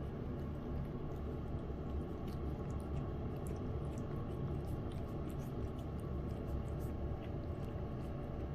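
A lynx point cat eating wet cat food in gravy: faint, irregular wet clicks of chewing and licking over a steady low hum.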